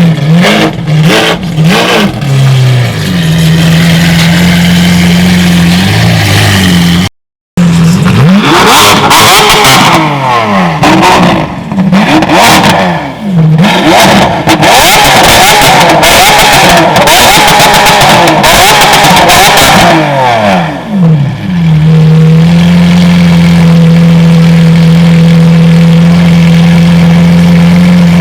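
Lamborghini Aventador SV's V12 engine idling, then revved hard again and again, its pitch sweeping up and down with sharp exhaust crackles. It settles back to a steady idle about three quarters of the way through.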